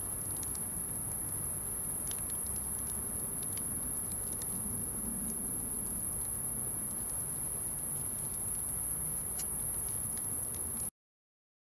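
Wood fire crackling in a fire pit: scattered small pops and ticks over a low rumble, under a loud steady high-pitched hiss. The sound cuts off suddenly shortly before the end.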